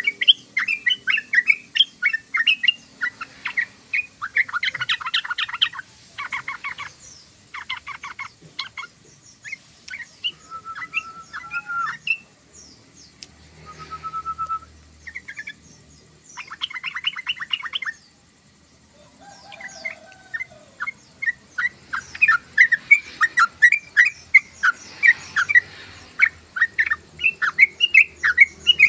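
Yellow-vented bulbul song: quick runs of bubbling chirps broken by fast rattling trills and a couple of short, level whistled notes. It falls quiet briefly a little over halfway through, then the chirping picks up again, denser and louder toward the end.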